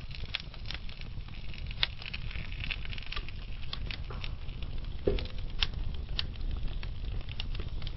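Wood fire of burning logs in a fireplace crackling: irregular sharp pops and snaps over a steady low rumble, with one louder crack about five seconds in.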